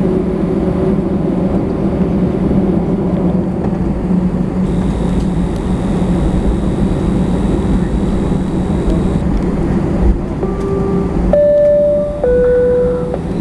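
Steady low drone inside an Airbus A320 cabin, with a faint high whine for a few seconds in the middle. Near the end a cabin chime sounds: a short single tone, then a two-note high-low chime.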